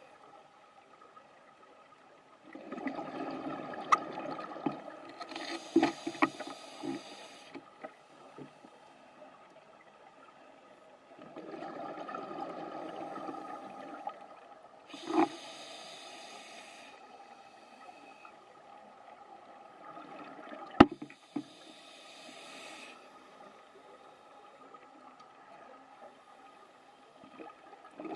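Scuba regulator breathing underwater: three breaths, each a burst of bubbling exhaust followed by a brighter hiss, with several sharp clicks or knocks in between.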